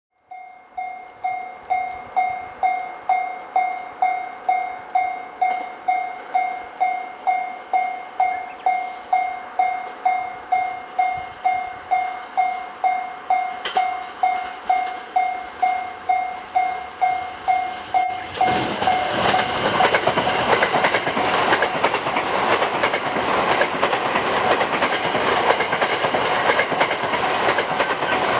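A railway level crossing's electronic warning bell rings about twice a second. About eighteen seconds in, a Thunderbird limited express electric train reaches the crossing and passes over it with a loud rush of wheel and rail noise and clattering over the rail joints, which drowns the bell.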